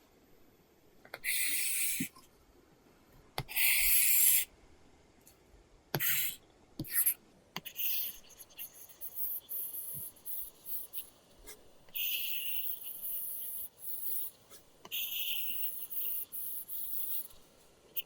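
Apple Pencil drawing on an iPad Pro fitted with a paper-texture screen film, a scratchy pencil-on-paper sound. Long sweeping strokes of about a second alternate with runs of short quick strokes, and the pencil tip taps lightly on the screen now and then.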